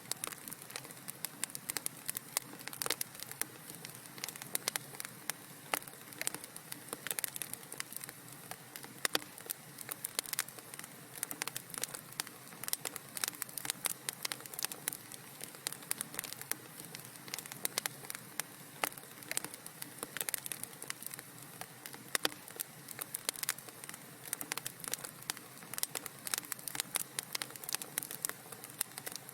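Wood fire crackling in a fireplace: dense, irregular snaps and pops over a soft steady hiss.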